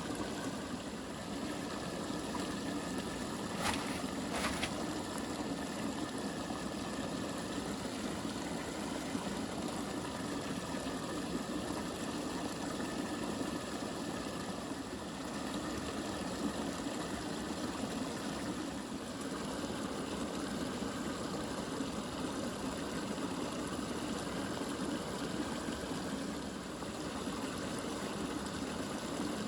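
Steady rush of running water, with two short sharp ticks about four seconds in.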